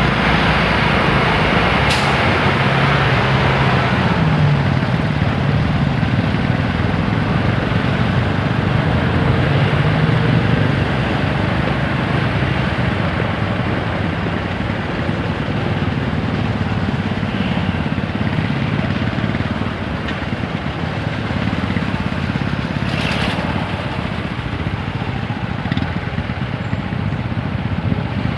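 TVS Apache 160 4V single-cylinder engine running on the move, its pitch rising as it pulls and falling again, over steady wind and road noise. There are a couple of brief clicks, one near the start and one late on.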